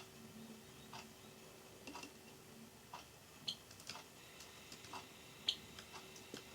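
Faint clock ticking about once a second, with a few sharper, irregular clicks in between from a Java sparrow's beak nibbling pea sprouts; the loudest click comes about five and a half seconds in.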